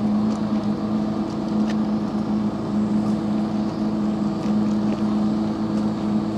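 Engine of a small passenger ferry boat running steadily, a constant hum that holds the same pitch throughout.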